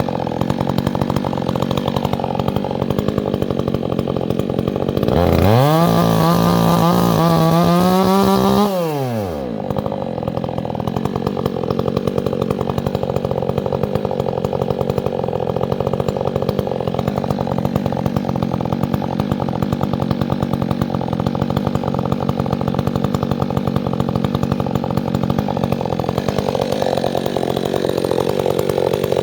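Two-stroke chainsaw running at idle, revved up to a high, steady pitch about five seconds in for roughly three and a half seconds, then dropping back to idle.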